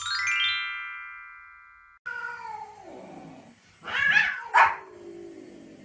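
A countdown-card sound effect: a quick run of bell-like notes rings out and cuts off about two seconds in. A Pomeranian and cats are then heard: a drawn-out, falling cry, then two sharp yaps about four seconds in and another at the end.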